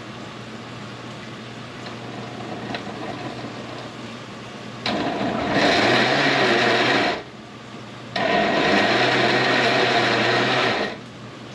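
Electric kitchen blender run in two bursts, about two and three seconds long, blending beetroot; the motor pitch rises at the start of each burst. A low steady hum comes before them.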